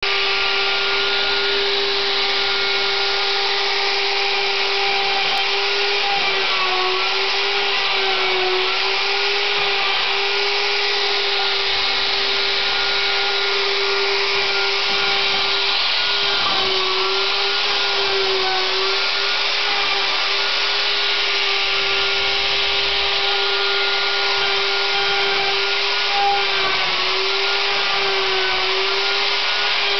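A 2 hp Bosch router spindle on a CNC router runs at a steady high pitch with a hiss. Its pitch sags briefly several times as the bit drills holes under load.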